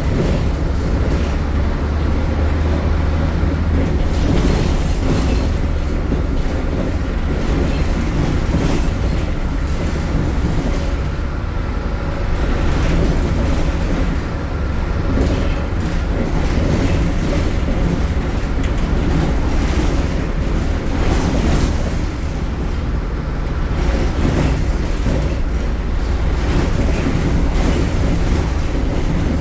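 MAN Lion's City city bus's Euro 4 diesel engine running loudly under way, with a steady low engine note and frequent rattles and knocks from the moving bus.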